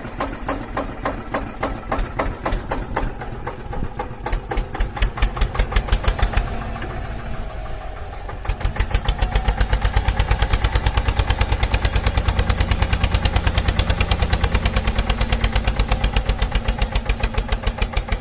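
Small engine running with a regular chugging beat, settling into a steadier, slightly faster rhythm about eight seconds in.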